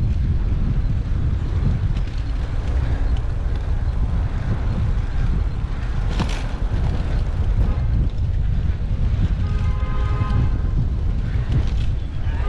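Wind buffeting a bicycle-mounted action camera's microphone, with road rumble, while riding a Brompton folding bike through traffic. There is a sharp click about halfway through, and a steady pitched tone comes in near the end.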